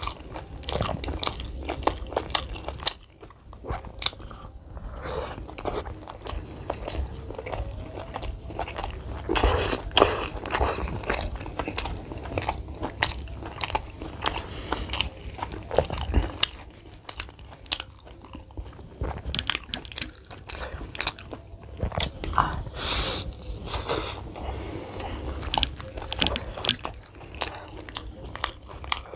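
Close-miked chewing and biting of fried Indian snacks dipped in chickpea curry: an irregular run of crisp crunches and mouth clicks.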